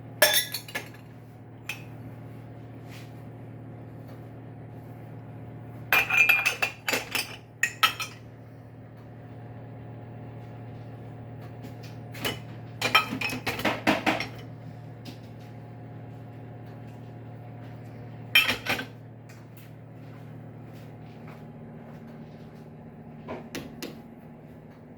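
Dishes and cutlery clinking in five short bursts of knocks and clinks, as items are handled from a dishwasher load, over a steady low hum.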